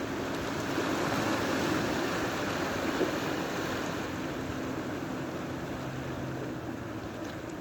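Sea waves washing on the shore, the surf swelling about a second in and easing off after three seconds, with a faint steady low hum underneath.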